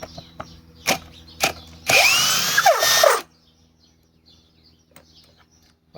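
Cordless hammer drill running for just over a second, backing a fastener out of wood, its motor pitch falling as it stops. Two sharp clicks come just before.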